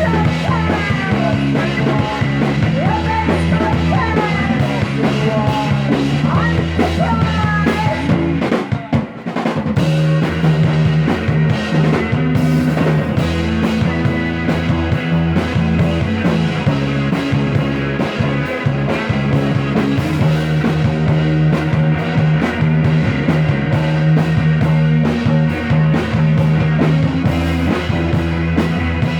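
Live psychedelic rock band playing with bass, drums and guitar; sliding, wavering lead notes ride over the band for the first eight seconds. The music drops out for a moment about nine seconds in, then the full band comes back in.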